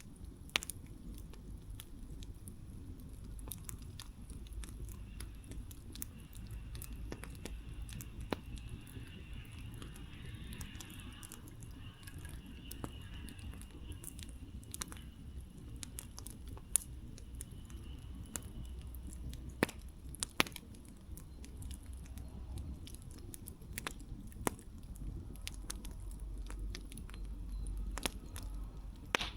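Campfire burning, its wood crackling with scattered sharp pops at irregular intervals.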